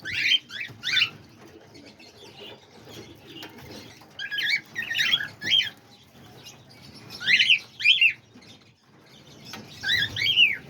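Small aviary parrots chirping in short high calls that come in clusters every few seconds, with quieter gaps between.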